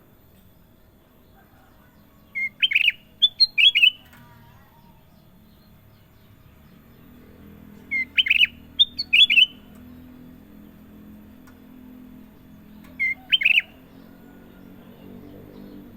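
Kutilang emas, a bulbul, singing three short phrases, each a quick run of clear, high notes lasting about a second, a few seconds apart.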